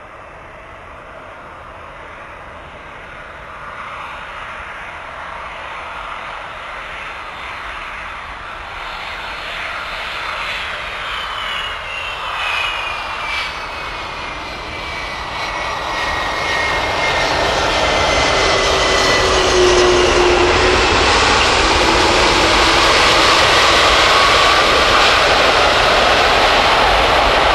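Airbus A330 twin-engine jet airliner on landing approach. Its engine noise grows steadily louder as it nears. A high whine slides down in pitch as it passes, about halfway through, followed by a loud, steady rushing noise.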